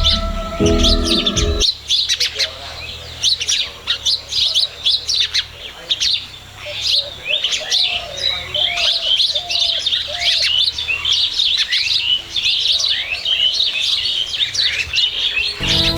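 A dense chorus of many small birds chirping: quick, high, overlapping calls, many sliding down in pitch, with a few lower calls mixed in. Background music plays for the first second or two and then stops.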